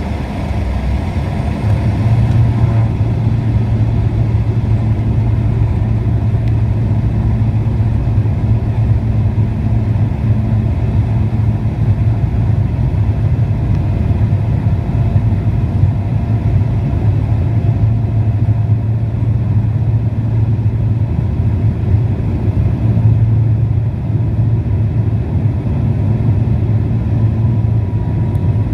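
Pilatus PC-12's single turboprop engine running steadily, growing louder about two seconds in and then holding a steady low drone.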